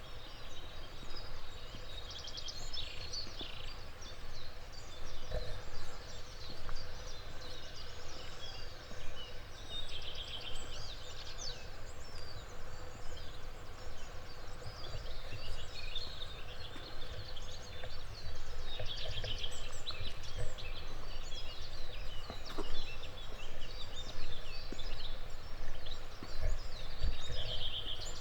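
Several songbirds singing and calling together in a dawn chorus, with a rattling trill recurring every several seconds, over a steady low rumble.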